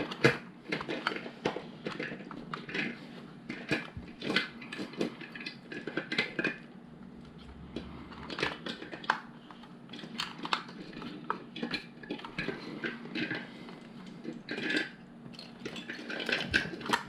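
Small plastic LEGO pieces clicking and rattling as they are handled and sorted through, in many short, irregular clicks.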